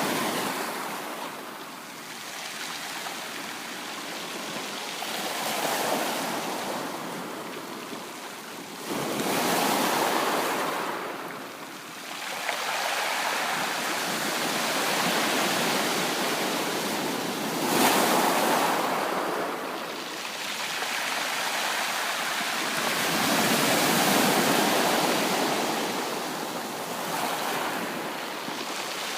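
Ocean waves breaking and washing up on the shore, the surf swelling and fading every few seconds, with one sharper crash about two-thirds of the way through.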